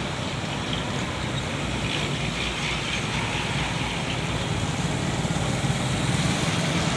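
A vehicle engine running steadily under an even wash of water and rain noise, growing slightly louder toward the end.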